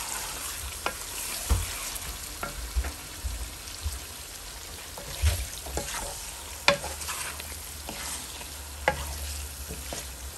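Chicken pieces with onions and spice mix sizzling in a pan while a wooden spatula stirs them, with a few sharp knocks and scrapes of the spatula against the pan. The chicken is frying in the water it has released, the masala being browned in that liquid.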